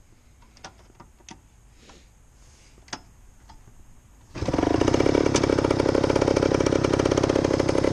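Yamaha YG5T Trailmaster's small two-stroke single-cylinder engine starting about four seconds in, after a few faint clicks, and then idling steadily with a rapid, even beat.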